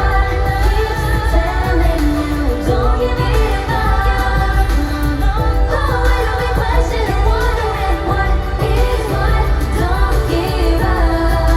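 Live pop song performed by a girl group: vocals sung over a loud backing track with a heavy, steady bass.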